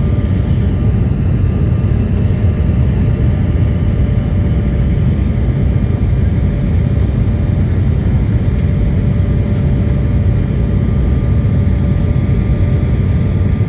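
Cabin sound of an Embraer 175's GE CF34-8E turbofan engines at high thrust during takeoff: a steady, loud deep rumble with a steady whine from the engines.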